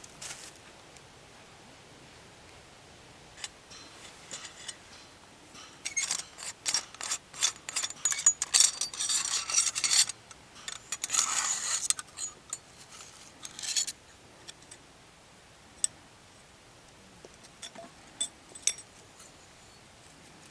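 Close handling noise: a spell of rubbing and scraping in the middle, followed by a few sharp clicks.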